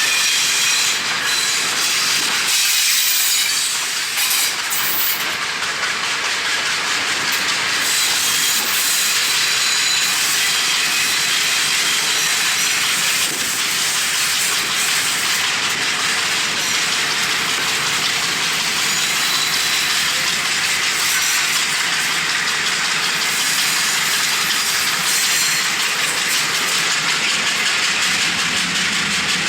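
Passenger train running, heard from on board, with a steady loud rushing hiss of wind over the action camera's microphone.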